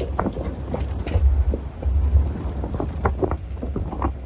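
Safari vehicle's engine running with a low rumble, louder in the middle, and wind buffeting the microphone.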